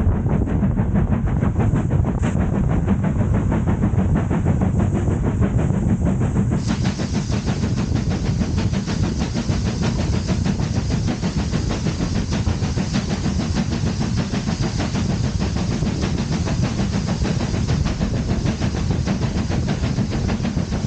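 Steady rumble of a heritage railway train running, loud and unbroken, with the most energy at low pitch.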